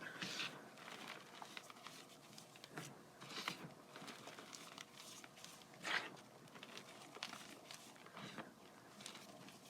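Block of gym chalk being crushed and crumbled: soft, crispy crunches and crackles, with stronger crunches at the start, about three and a half seconds in and about six seconds in.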